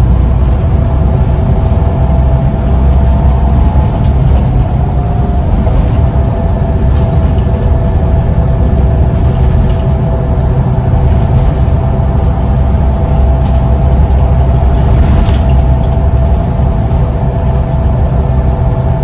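Scania CN94UB Omnicity single-deck bus under way: a steady, heavy engine and road rumble with a constant whine running over it.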